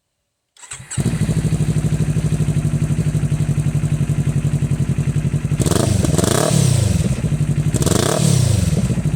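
2020 Kawasaki Ninja 400's parallel-twin engine idling through an aftermarket slip-on exhaust with its baffle (dB killer) removed. It comes in suddenly about half a second in and is revved up and back down twice, about six and eight seconds in.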